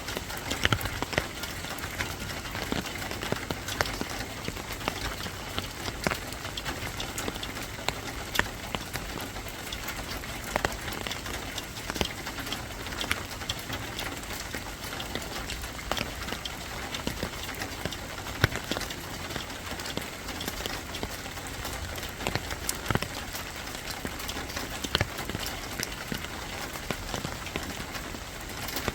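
Steady rain falling on hard surfaces, with scattered sharp drips and taps throughout.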